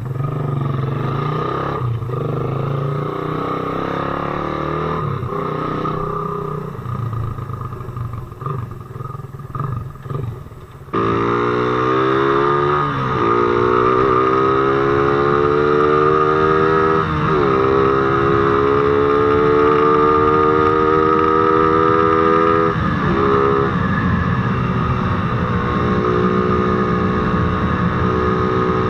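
Motorcycle engine running quietly at first, then, about eleven seconds in, suddenly louder and pulling away. Its pitch climbs through the gears, dropping sharply at each of three shifts, then holds steadier at cruising speed.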